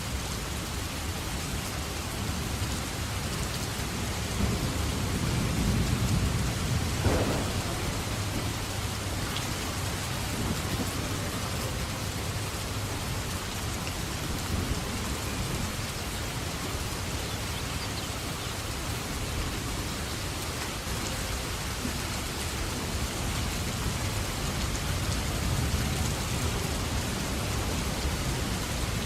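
Steady rain throughout, with a low rumble of thunder building about four seconds in and peaking in a short sharp crack about seven seconds in. A fainter rumble comes near the end.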